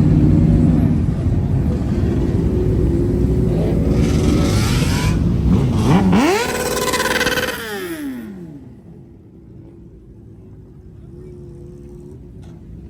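Car engine rumbling loudly, then revving hard about six seconds in: the pitch climbs steeply, then drops away and the sound fades, leaving a quieter hum.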